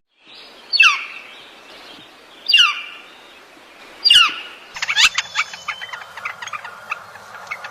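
Bird calls: three loud, sharply falling calls about one and a half seconds apart, then a quick run of short chirps and twitters.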